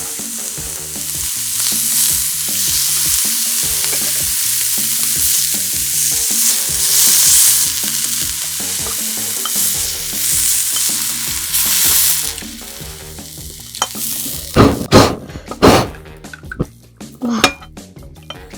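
Slices of Hanwoo beef sizzling steadily while they grill. About thirteen seconds in, the sizzle dies down and a few sharp knocks and clicks follow.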